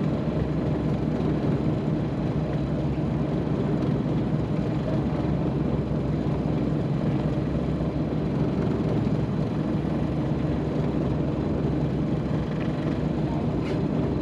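Fishing boat's motor running steadily at sea, a low even drone.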